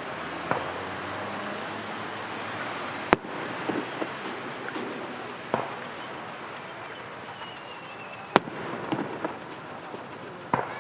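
Fireworks display: sharp shell bursts, the two loudest about three and eight seconds in, with smaller pops between. A thin falling whistle leads into the second big bang.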